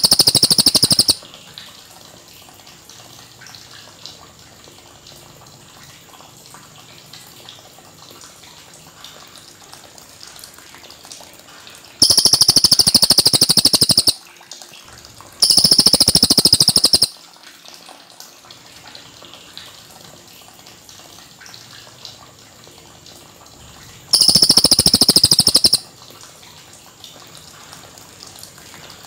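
Cililin bird singing in bursts of rapid, rolling high-pitched notes, each burst about two seconds long. One burst ends just after the start, then three more come after long pauses, with only faint hiss between them.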